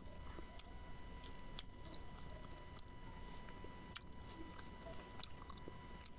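Close-up chewing and mouth sounds of a person eating smoked pork, with scattered small clicks.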